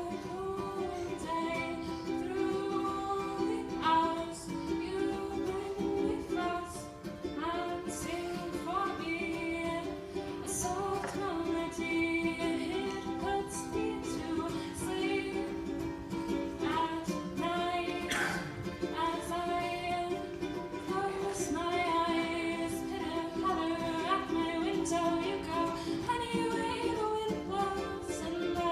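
A woman singing a song over a plucked string instrument accompaniment.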